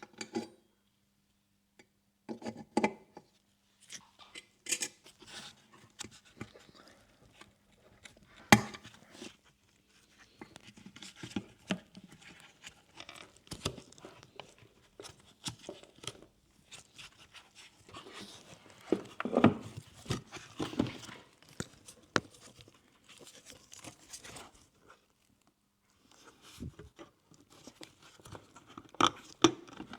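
Close-up hand-work noises: irregular clicks, knocks and crinkling, tearing rustles of packaging or plastic, with a sharp click about eight seconds in. A faint steady hum sits underneath at the start and again near the end.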